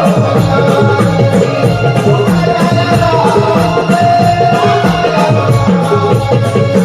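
Konkan naman folk music: a hand drum plays a fast, even rhythm under a held melody line.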